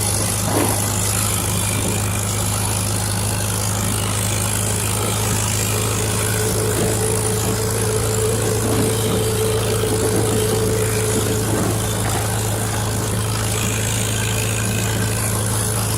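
1951 Farmall H tractor's four-cylinder engine running steadily as the tractor is driven along the road. A faint, steady, higher whine joins it for several seconds in the middle.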